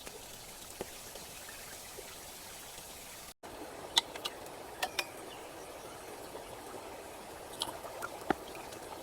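Steady rain hiss with scattered light clicks and taps over it. The sound drops out abruptly for an instant about a third of the way in, then carries on.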